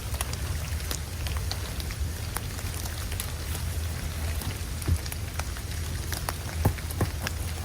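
Icy snow pattering in scattered, irregular ticks over a steady hiss and low rumble of wind.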